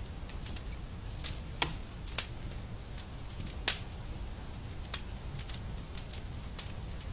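Fireplace fire crackling over a steady low rumble, with irregular sharp pops, a few louder ones scattered through.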